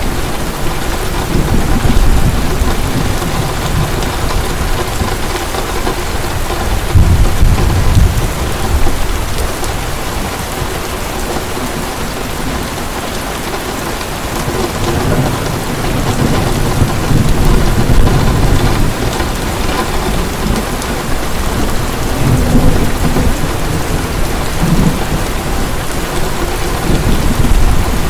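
Heavy rain falling steadily, with low rumbles of distant thunder swelling and fading several times.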